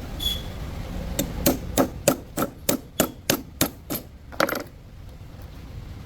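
Hammer blows struck in a steady run, about ten at roughly three a second, then a single last blow.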